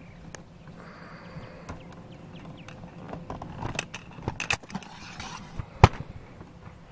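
Clicks and knocks of a camera being handled and set on its stand, with one sharp loud click about six seconds in. A few faint bird chirps sound in the background.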